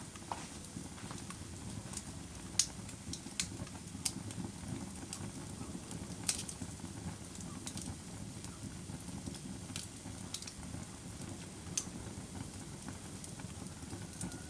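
Wood fire burning in a fireplace: a steady low rumble of flame with sharp crackles and pops scattered through it, a few louder pops standing out.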